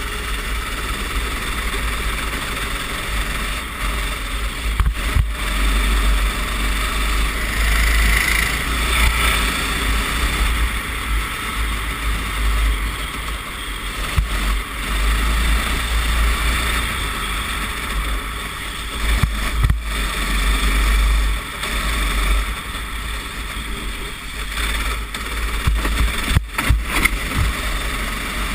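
Racing kart engine running on a wet track, heard onboard, with heavy wind rumble on the microphone and a few short knocks.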